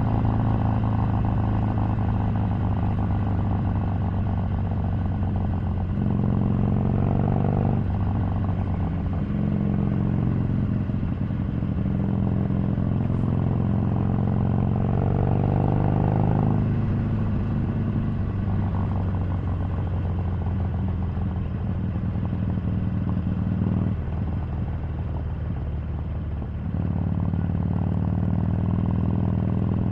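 Harley-Davidson 883's air-cooled V-twin engine running under way, its pitch climbing and then dropping back several times as the rider changes gear. About three-quarters of the way through it eases off and goes quieter for a couple of seconds, then pulls again.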